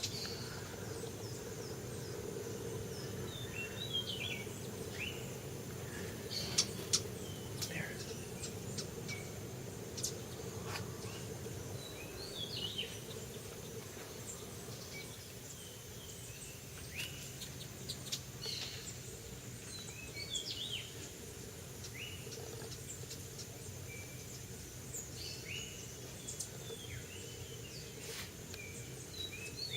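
Wild birds calling in a tropical forest: short, scattered chirps and whistles from several birds over a steady low background hum, with a thin steady high tone throughout.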